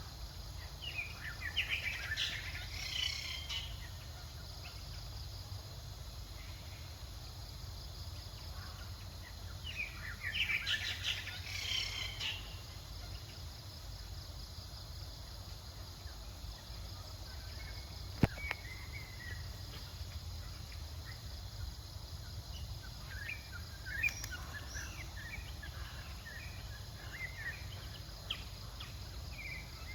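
Two clusters of high, chirping animal calls, one near the start and one about ten seconds in, with a few smaller chirps later, over a steady low outdoor rumble and hiss; a single sharp click about eighteen seconds in.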